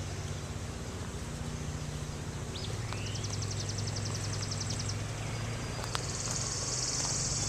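Outdoor rural ambience: a high animal trill in rapid even pulses a few seconds in, then a denser high buzzing trill near the end, with a few short rising chirps, over a steady low hum.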